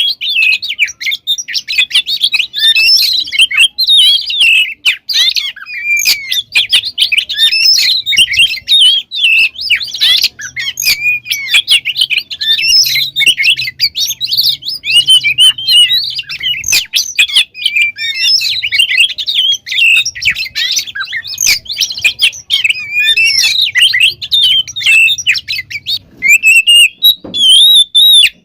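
Oriental magpie-robin (kacer) singing a fast, unbroken song of varied chirps, trills and whistles, packed with different phrases, the 'full isian' style that keepers play to stir up their own birds.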